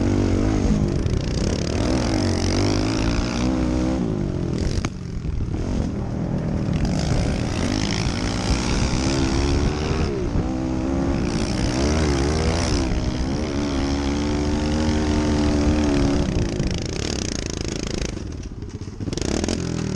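Small four-stroke pit bike engines riding, the revs rising and falling over and over as the throttle opens and closes, with a brief quieter stretch near the end.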